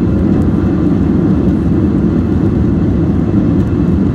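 Steady, loud rumble of a jet airliner's engines and airflow heard from inside the passenger cabin.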